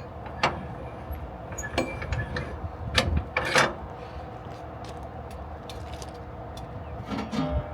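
A few sharp metallic clicks and clanks from gear being handled on a flatbed trailer, the two loudest about three seconds in, over a steady low hum.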